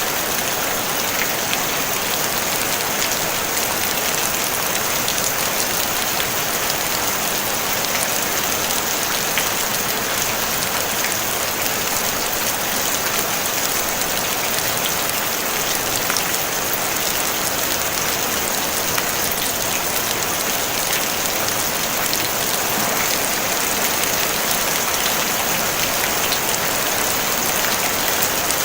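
Steady rain on a tin roof: a dense, even patter of drops with no thunder.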